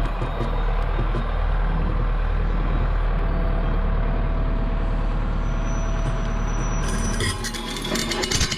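Heavy diesel engine running steadily with a low rumble. About seven seconds in, music comes in over it.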